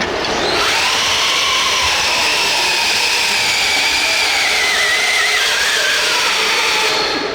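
RC pulling vehicle's electric motor and geartrain whining at full power. The whine climbs in pitch about half a second in, holds, then sags slowly before cutting off near the end.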